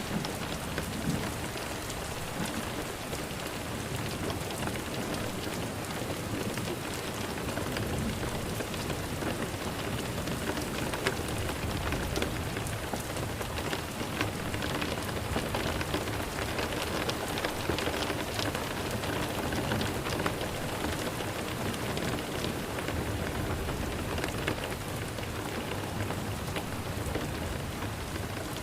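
Steady rain falling, a continuous hiss with many small drop ticks, even in level throughout.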